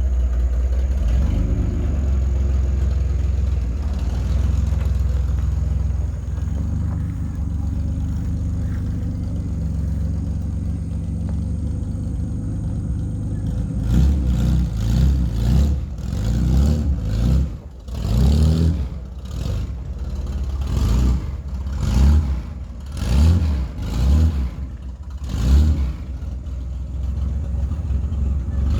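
Truck engine idling steadily, then from about halfway revved in a string of a dozen or so short blips, each rising and falling back.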